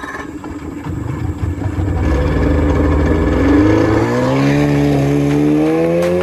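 Jet boat's motor running, a low rumble at first, then climbing steadily in pitch as it revs up from about three seconds in, settling toward a steady high speed near the end.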